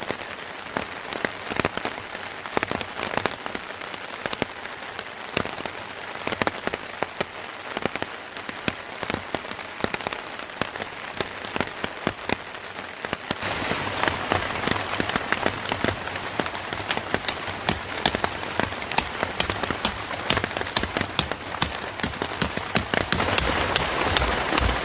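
Steady rain falling on a surface, a dense patter of drops that turns louder about halfway through. Sharp, crisp ticks are scattered over the second half.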